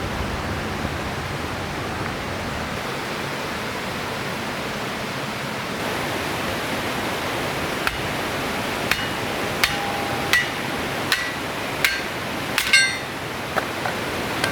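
Steady rush of a flowing river, with a series of about eight sharp metallic knocks that ring briefly, coming a little under a second apart through the second half.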